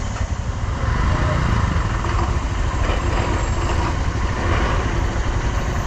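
Motorcycle engine running steadily with a constant rushing noise over it.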